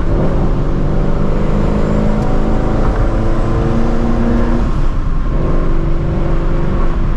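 Procharged Ford Shelby GT350's 5.2-litre flat-plane-crank V8 pulling under load, heard from inside the cabin, with a brief break in the engine note about five seconds in, as at a gear change.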